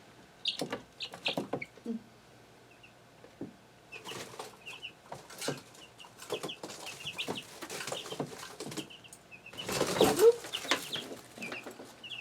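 Young chickens peeping in short, high chirps amid scratching and rustling, with a louder flurry of wing flapping about ten seconds in as one flutters down from its perch.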